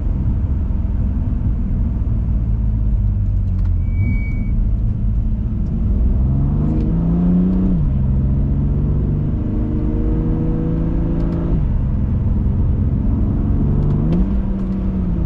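BMW M2 Competition's twin-turbo inline-six engine under way over a heavy low rumble of road noise. The engine pitch climbs and drops back a little after halfway, holds steady, drops again, and climbs once more near the end, as the car accelerates and changes gear.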